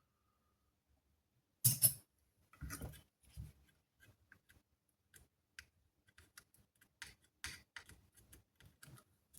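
Scattered small clicks and scrapes of tools and parts being handled, with a louder scraping clatter about two seconds in.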